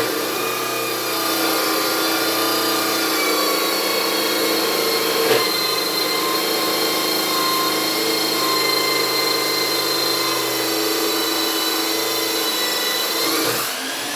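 Handheld electric power tool running steadily with a whining motor tone, working on the steel frame. Its pitch rises and it cuts off near the end.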